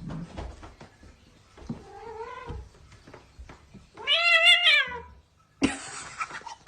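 A domestic cat meowing twice: a short, softer meow about two seconds in, then a loud, drawn-out meow with a wavering pitch. A burst of noise follows near the end.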